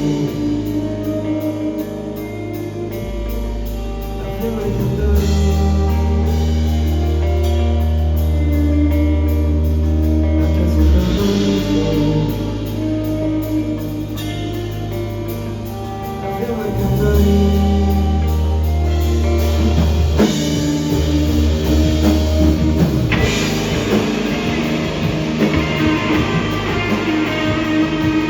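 Rock band playing live: electric guitar, bass and drum kit, with long held bass notes changing every few seconds. The band gets louder about five seconds in and again past the halfway point.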